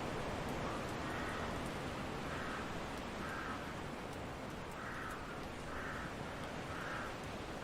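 Steady wind noise, with a bird's short call repeated about six times over it, roughly once a second.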